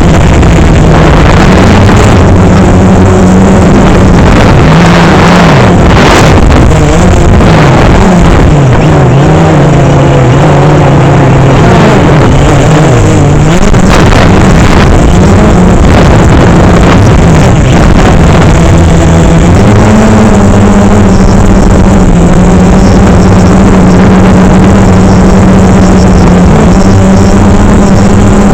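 DJI Phantom 3 quadcopter's motors and propellers buzzing in flight. The pitch wavers up and down over the first half as the drone manoeuvres, then settles into a steady hum.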